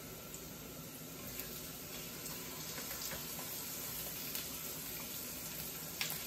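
Lobster tails sizzling in butter and garlic in a hot cast-iron skillet, the sizzle growing slightly as the tails are laid in. A few light clicks and a small knock of handling near the end.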